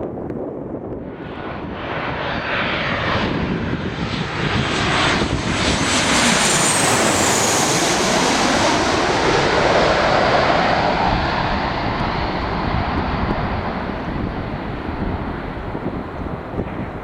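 Landing airliner passing low overhead on approach: its engine noise swells from about a second in, a high engine whine sweeps down in pitch as it goes by, then the rumble fades away.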